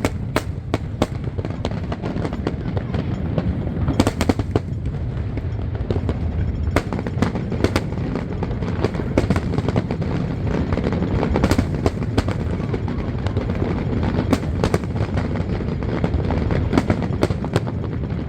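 Aerial fireworks going off, a steady rumble of bursts with many sharp cracks, some in quick runs.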